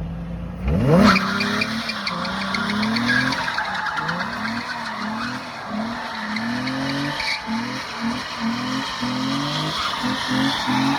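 Nissan 350Z's 3.5-litre V6 engine revving hard while drifting, with tyres squealing. About a second in the revs sweep sharply up, then rise and drop again and again.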